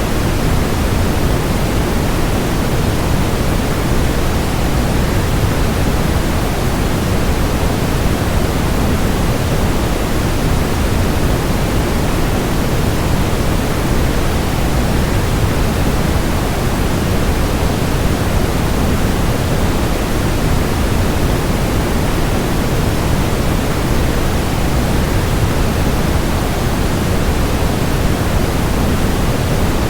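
Waterfall sound blended with white noise: a steady, even rush, heavier in the low end, with no changes or separate events.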